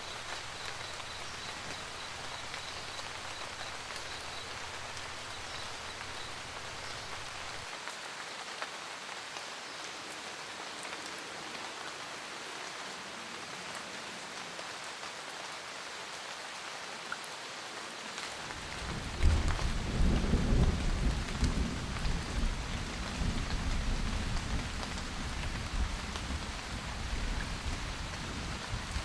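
Steady rain pattering on a roof. About two-thirds of the way through, thunder breaks in suddenly and loudly, then rolls and rumbles as it fades over several seconds.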